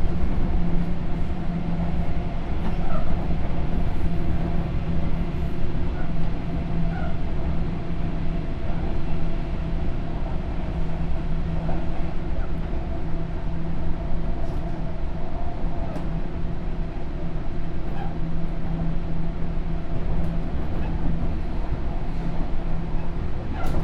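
Sotetsu New 7000 series electric train running along the line, heard from inside the car: a steady rumble of wheels on rail with a constant low hum.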